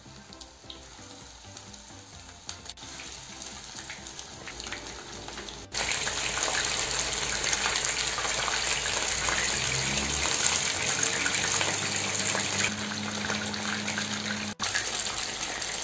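Cornstarch-coated chicken pieces frying in hot oil in a nonstick pan: a quiet sizzle at first, then a loud, steady sizzle from about six seconds in, once the pan is full of chicken.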